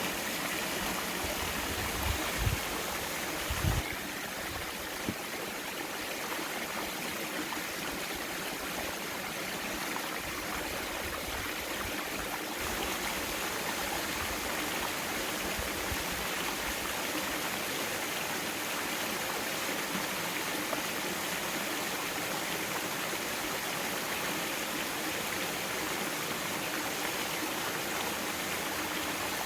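Mountain stream water flowing and rushing steadily over rocks, with a few brief low thumps a few seconds in.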